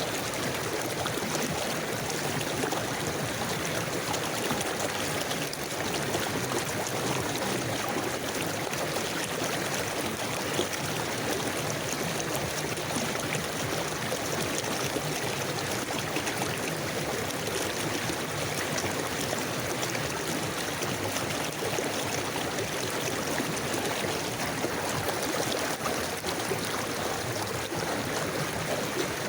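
River water flowing steadily over stones in a forest stream, a continuous even rush with small gurgles.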